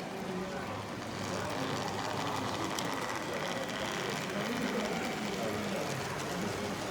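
Model train running on the layout: the thin, steady whine of a small electric locomotive motor, starting about a second in, over background chatter in a busy hall.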